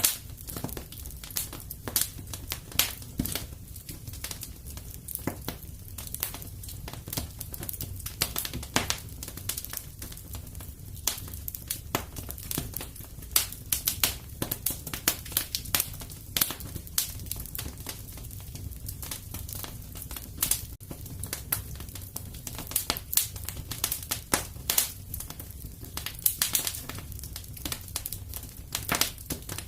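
Fire in a fireplace crackling, with many irregular sharp pops and snaps over a low steady rumble.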